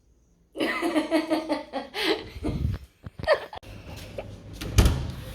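A person laughing in a quick run of pulses for about a second and a half, followed by a few knocks and handling bumps, the loudest just before the end.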